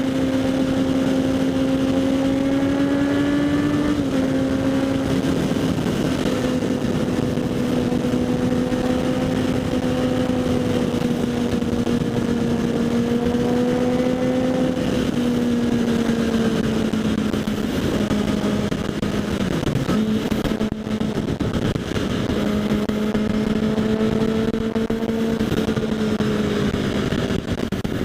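Kawasaki Z800's inline-four engine through an aftermarket LeoVince SBK exhaust, running at steady cruising revs while riding, its note drifting slowly lower with a brief dip and recovery about two-thirds through. Wind rush over the helmet-mounted microphone sits under the engine.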